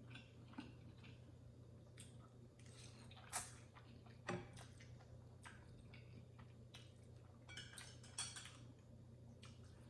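Faint eating sounds: noodles being chewed, with scattered short clicks of a utensil against a bowl, the sharpest about four seconds in.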